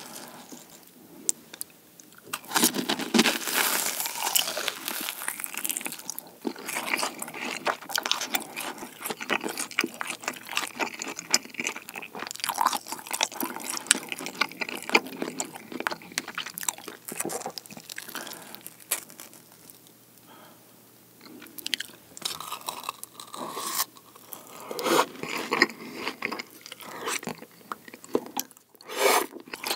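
Close-miked chewing and crunching of fried food in sauce: a cheese ball dipped in kimchi sweet-and-sour sauce, then battered fried pork (tangsuyuk). There is a quieter stretch about two-thirds of the way through.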